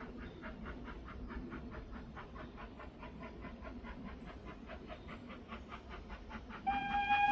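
Steam locomotive working, its exhaust beating in quick, even chuffs about four a second. Near the end its steam whistle sounds one steady note, louder than the chuffing.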